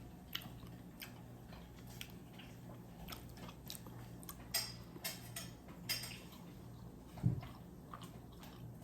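A person chewing a piece of chocolate close to the microphone: soft, scattered mouth clicks and smacks, with a single low thump about seven seconds in.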